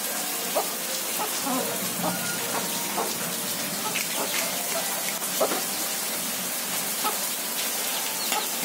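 Steady rain falling, with a few short taps and clicks scattered through it.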